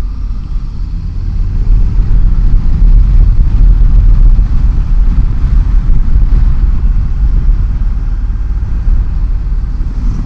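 Motorcycle being ridden at road speed, heard from the rider: a steady low rumble of engine and wind on the microphone, growing louder about two seconds in.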